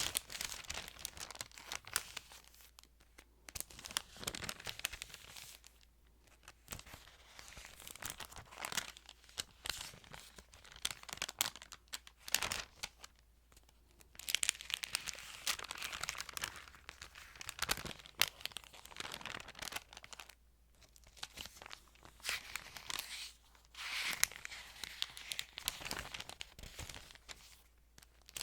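Thin Bible pages being handled and turned close to the microphone, crinkling and crackling in irregular bursts separated by short pauses.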